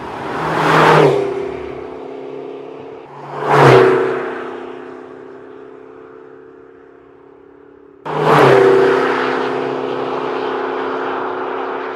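McLaren GT's twin-turbo 4.0-litre V8 idling steadily with two revs that swell and fade, about a second in and again near four seconds, then a sudden loud flare about eight seconds in that settles back into a steady idle.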